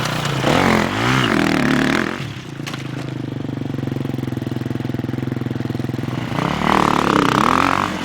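Dirt bike engine running, revved up and down twice, once about half a second in and again near the end, and holding a steady note in between.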